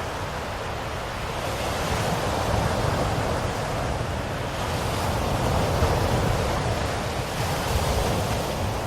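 Ocean waves washing onto a shore, a steady rush that swells and eases gently every few seconds.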